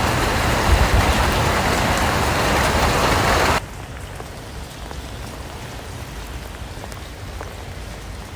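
Heavy rain pouring steadily, then cutting off suddenly a little over a third of the way in to much lighter rain with single drops heard tapping.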